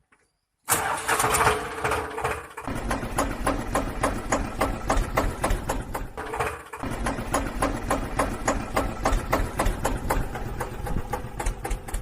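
An engine running with a rhythmic knocking chug of about five beats a second. It starts with a higher hum that drops into a lower running note, and the same start-and-settle pattern comes again about halfway through.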